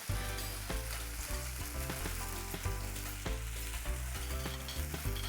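Fish sizzling in a hot frying pan, just after lemon juice goes in, with background music and its low bass line underneath.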